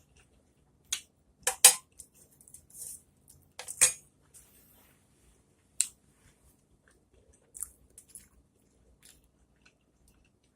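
Scattered clinks and clicks of utensils and dishes during a meal, with a short pause between each; the loudest come a little under two seconds in and again about four seconds in.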